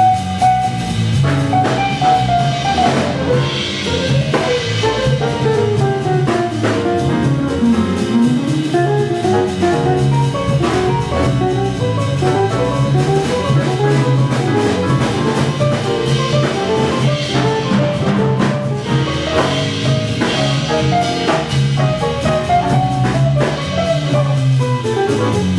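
Jazz orchestra playing: a drum kit keeps time under a steady bass line while a melodic line plays fast runs that sweep down and back up.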